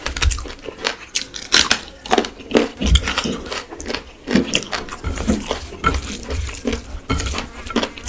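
Close-miked chewing and wet mouth sounds of eating rice and curry: irregular smacks, slurps and clicks with soft low thuds.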